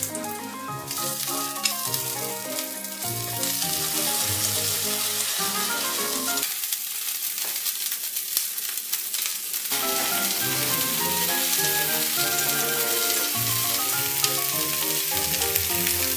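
Potatoes, cherry tomatoes and green beans sizzling as they fry in oil in a nonstick frying pan; the sizzle grows louder about three seconds in. Light background music plays over it and drops out for a few seconds in the middle.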